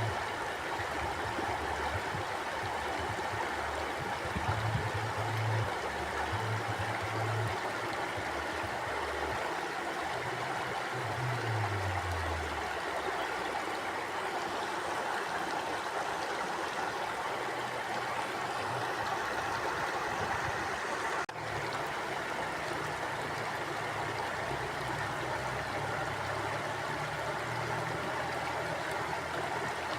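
Mountain stream flowing steadily over rocks, a constant rushing, gurgling wash of water. A low rumble comes and goes underneath, and there is a brief break in the sound about twenty seconds in.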